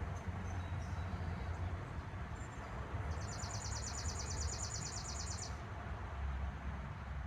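Outdoor ambience: a steady low rumble, with a few faint high chirps in the first second and a high, rapid trill lasting about two and a half seconds in the middle.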